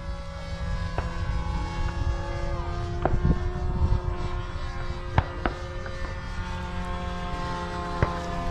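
Radio-controlled model airplanes in flight: a steady motor whine that dips slightly in pitch a couple of seconds in, over a low rumble, with a few sharp clicks.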